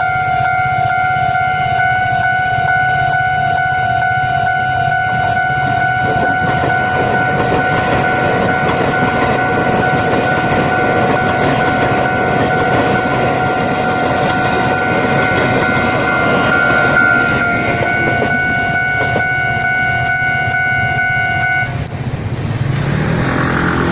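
Railway level-crossing warning signal sounding a steady electronic tone while a Taiwan Railway train passes, its wheels rumbling and clacking over the rails, louder from about six seconds in. The warning tone stops about twenty-two seconds in, as the train noise trails off.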